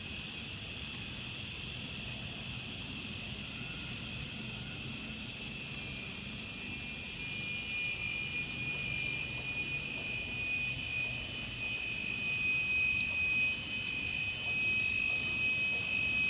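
Steady, high-pitched insect drone, growing louder about seven seconds in.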